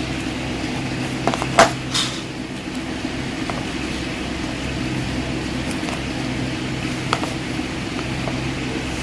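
A steady mechanical hum, like a fan or air conditioner, with a couple of short sharp clicks about a second and a half and two seconds in.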